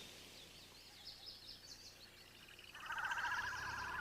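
Birds calling: faint, high chirps, then a louder, rapid trilling song starts near the end.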